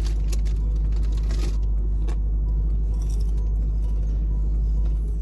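Steady low rumble of a car on the road, heard from inside the cabin, with a few light clicks and jingles over it.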